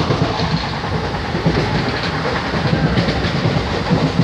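Steady rumble and rattle of a moving Indian Railways sleeper-class passenger train, heard from inside the coach.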